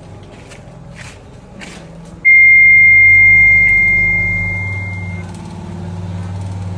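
A few faint knocks, then about two seconds in a loud steady high-pitched electronic beep sounds for about three seconds. A low steady hum starts at the same moment and keeps running after the beep stops.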